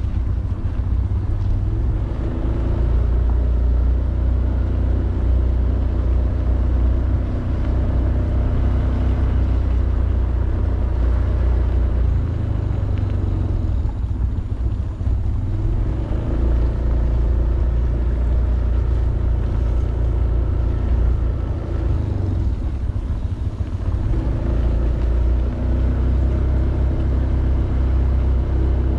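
Honda BeAT 110cc scooter's single-cylinder engine running while riding, under heavy wind rumble on the helmet-mounted camera's microphone. The engine and wind ease briefly twice, about halfway through and again about three quarters of the way in.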